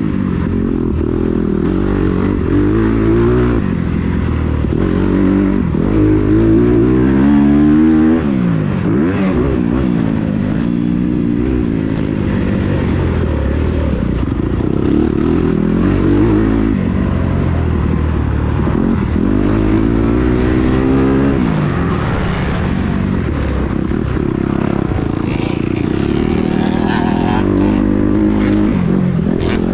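Kawasaki KX250 motocross bike engine being ridden hard, revving up and dropping back again and again as the throttle opens and closes through the gears.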